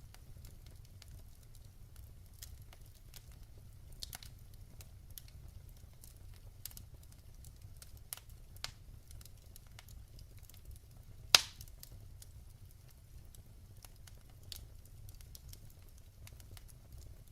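Wood fire burning in a fireplace: a low steady rumble with scattered crackles and pops, one much louder pop about eleven seconds in.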